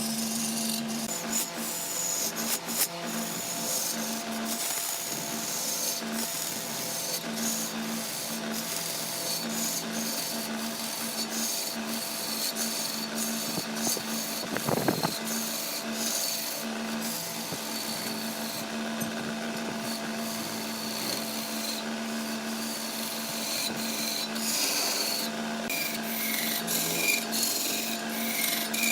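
A tool scraping and rasping on wood, with many small irregular clicks, over the steady hum of a running machine motor, as when turning wood on a lathe. A single brief knock about halfway through.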